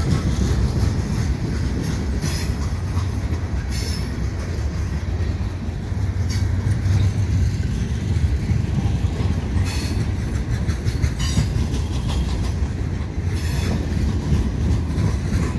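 Freight cars of a mixed freight train rolling past: a steady low rumble of steel wheels on rail, broken by sharp clacks every second or few as the wheels pass over the track.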